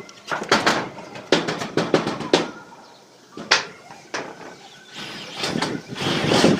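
Hammer blows on corrugated tin roofing sheets: a string of sharp metallic knocks, several in quick pairs during the first two seconds and then single strikes, with a longer, rougher scraping noise near the end.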